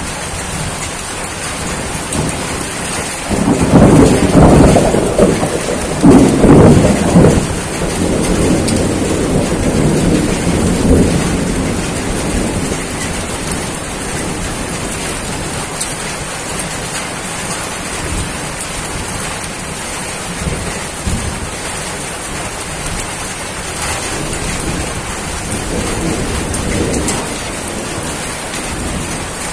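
Steady heavy rain with a roll of thunder a few seconds in. It is loudest for about four seconds, then dies away over several more. A fainter rumble follows near the end.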